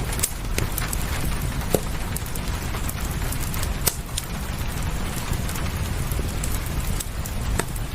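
Steady rain with a low rumble beneath it, and the scattered sharp crackles of a wood fire, about half a dozen pops over the few seconds.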